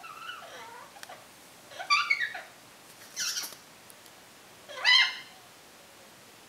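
African grey parrot vocalising: soft wavering sounds in the first second, then three loud, short calls about two, three and five seconds in, the last one rising in pitch.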